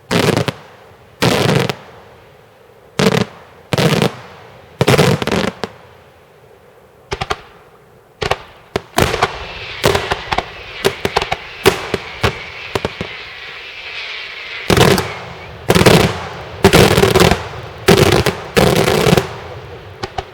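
Daytime fireworks display: a series of loud aerial shell bangs about a second apart. About nine seconds in comes a dense run of rapid crackling pops over a hiss, then a final string of heavy bangs close together near the end.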